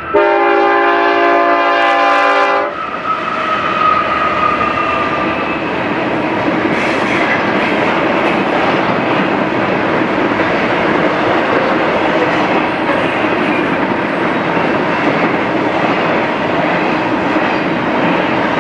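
A BNSF diesel locomotive's air horn sounds a loud multi-note chord for about three seconds as the intermodal train reaches the grade crossing. It then cuts off, giving way to the steady rumble and wheel clatter of double-stack container cars rolling past.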